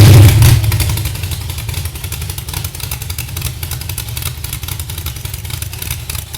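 Engine just started, loudest right at the start and settling within about a second into a steady idle with a fast, even beat.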